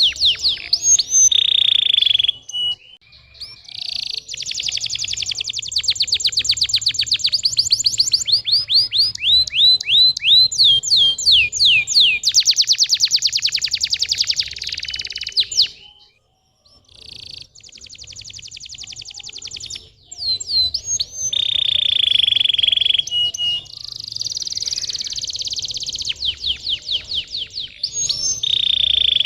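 Domestic canary singing a long song of fast rolling trills and rapid repeated chirps, with a short pause a little past halfway. This is the kind of song played as a lure to get young canaries singing.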